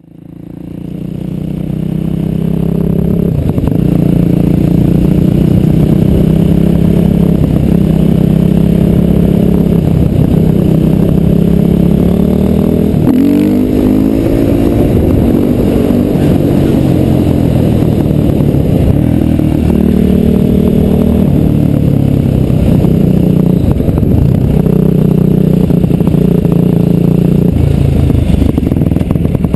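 Husqvarna supermoto's single-cylinder engine under way, heard from the rider's helmet. It fades in over the first two seconds, then runs on with its pitch climbing and dropping through several gear changes and a rising rev about halfway through.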